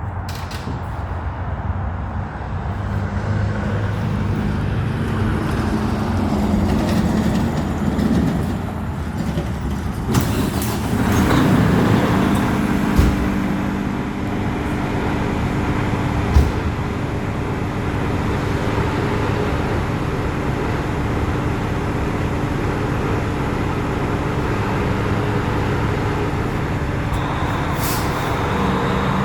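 Heavy fire truck's diesel engine running and pulling away, the engine note rising about ten seconds in, with a short air-brake hiss around then. A steady high tone comes in near the end.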